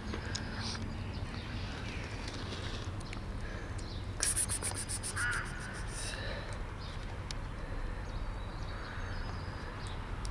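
Wild birds calling outdoors, with crow-like calls and a quick high rattling call about four seconds in, over a steady low background noise.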